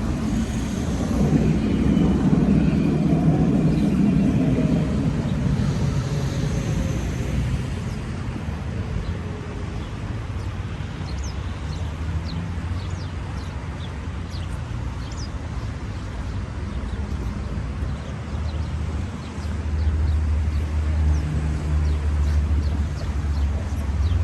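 Outdoor engine noise: a motor passes loudly in the first few seconds, its pitch falling as it goes, then a steady low rumble of traffic continues, with a few faint high chirps in the middle.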